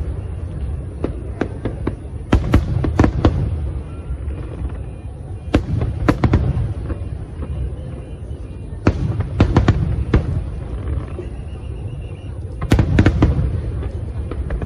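Aerial fireworks shells bursting in a series of sharp bangs that come in clusters every few seconds, over a continuous deep rumble of booms.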